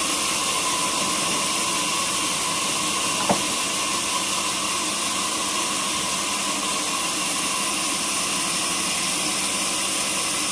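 Sawmill saw running steadily, a continuous hissing machine noise with a faint steady whine, and one sharp click about three seconds in.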